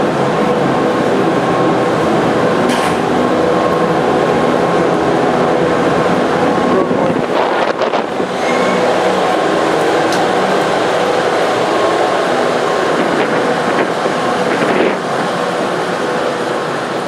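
Steady mechanical drone of a ferry underway, a loud even rush with a faint humming tone from its engines.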